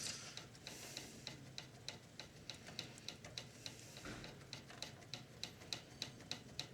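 Faint rapid ticking, even and regular at about five ticks a second, with a light hiss.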